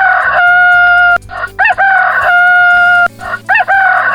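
Rooster crowing cock-a-doodle-doo three times in a row, each crow rising in short notes and ending in a long held note.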